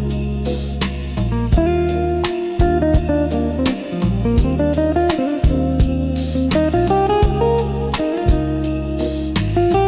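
Smooth jazz instrumental: a plucked guitar melody over a moving bass line and a light, steady beat.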